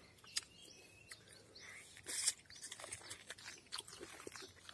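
A person biting and chewing the soft flesh of a ripe dwarf pineapple: faint wet clicks and smacks, with one louder bite about two seconds in.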